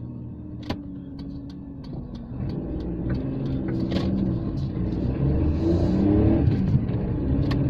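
Daewoo Matiz's 0.8-litre three-cylinder engine heard from inside the cabin, running low at first, then accelerating away from about two seconds in, getting louder and rising in pitch. A few short knocks come through as the car drives.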